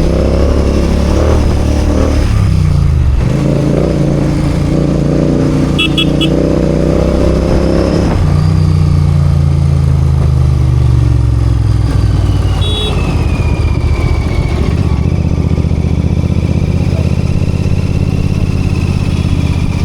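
Royal Enfield GT 650's parallel-twin engine running in traffic, the revs easing off about eight seconds in and settling to a steady low idle for the second half. A brief high beeping sounds about six seconds in.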